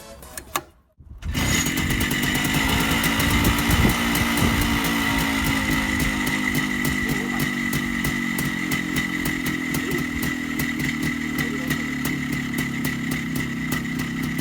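Minsk 125's single-cylinder two-stroke motorcycle engine running steadily at idle, with rapid, even firing. It comes in about a second in after a brief silence, and a steady high-pitched tone runs along with it.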